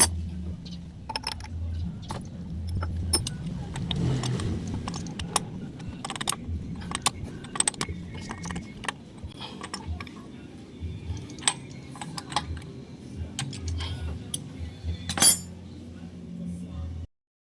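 Scattered light metallic clicks and clinks, like small parts or tools being handled, over a low hum, with one louder clink near the end.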